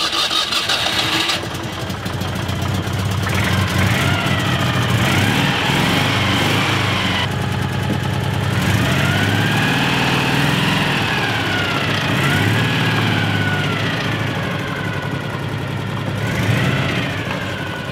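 Citroën Dyane 6's small air-cooled flat-twin engine running just after starting, its pitch rising and falling several times as it is revved and the car pulls away slowly.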